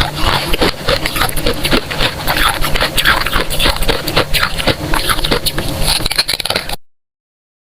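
Close-miked crunching and chewing of freezer frost, a dense run of crisp crunches that stops abruptly near the end.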